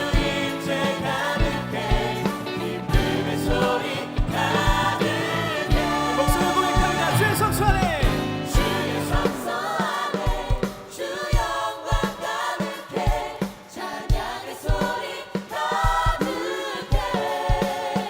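A live contemporary Christian worship song: a group of singers over a full band with a steady drum beat.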